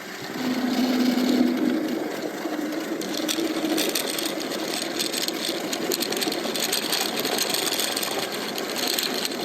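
Lightning Rods electric drive motor on a titanium e-bike whining steadily while riding, its pitch stepping up a little about two seconds in, with light rattling clicks joining about three seconds in.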